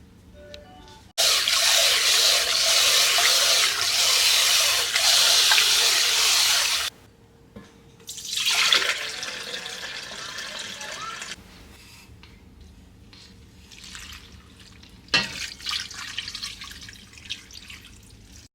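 Kitchen tap running hard into a sink, turned on about a second in and shut off about six seconds later. A shorter, quieter run of water follows, then a few small knocks and clatters.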